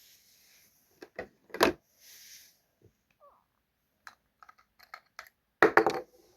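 Small items being handled and set down, giving scattered light clicks and taps with a couple of brief rustles. One louder knock comes about one and a half seconds in and a cluster of louder knocks near the end.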